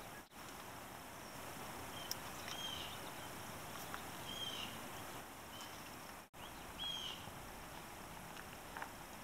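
Faint outdoor background hiss with a few short, high bird chirps, each a quick rising-and-falling note. The sound cuts out briefly twice.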